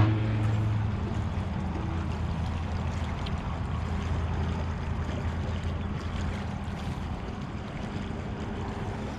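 A low engine drone, strong at first and fading over the first second, then a fainter steady hum under wind and water noise.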